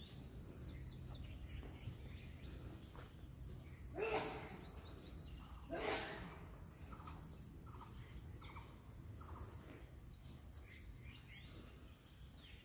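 Small birds chirping and twittering in quick runs of high notes, with two louder, harsher calls about four and six seconds in, over a faint steady low hum.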